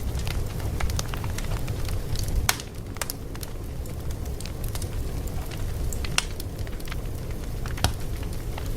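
Wood fire burning, with a steady low rumble and irregular sharp pops and crackles, a few louder pops standing out.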